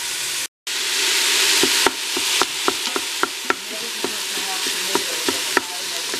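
Onions and ground beef sizzling as they fry in the stainless steel inner pot of an Instant Pot on its sauté setting, stirred with a wooden spoon that ticks and knocks against the pot several times. The sizzle drops out for a moment about half a second in.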